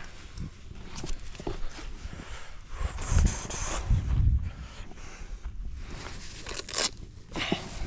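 Footsteps scuffing and knocking on dry, rocky, dusty ground, with a louder rustle about three seconds in.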